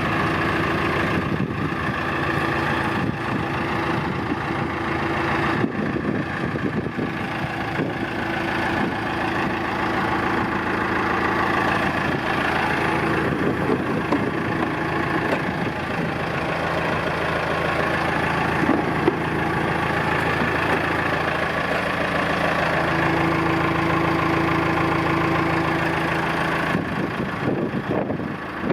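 Diesel engine of a 2001 Thwaites 6-tonne straight-tip site dumper running steadily at idle, with a few small shifts in engine speed.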